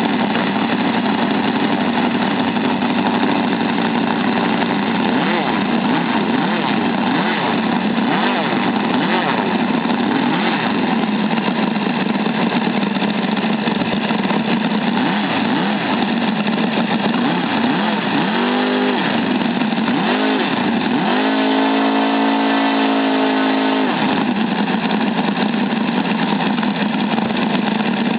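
ASP 400 five-cylinder radial engine running steadily on a break-in run. About two-thirds in, it is briefly revved, then held at a higher speed for about three seconds before dropping back.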